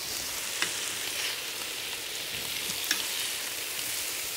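Shrimp and chicken sizzling steadily in grapeseed oil on a hot cast iron pan. Two light clicks, about half a second and three seconds in, as tongs lift the chicken.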